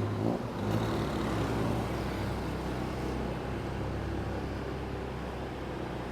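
Motorbike engine running steadily amid city road traffic noise.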